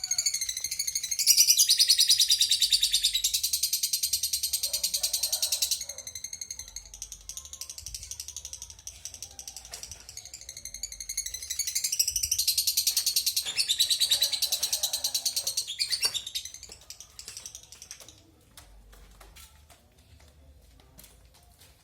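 Male lovebird chattering in long, very fast buzzy trills: two long loud bouts, the first about a second in and the second about halfway, with softer chatter between and faint clicks near the end.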